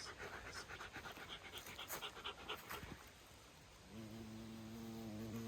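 Rapid rhythmic panting, about four breaths a second, for the first three seconds. About four seconds in, a steady low hum with several stacked pitches starts and holds.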